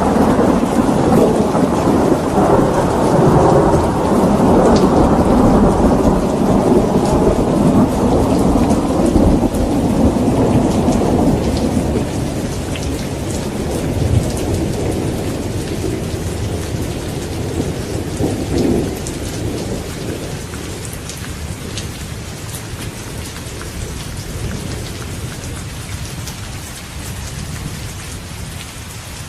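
Thunderstorm: a long rolling rumble of thunder, loudest in the first half, that slowly fades away over steady rain with scattered drop ticks.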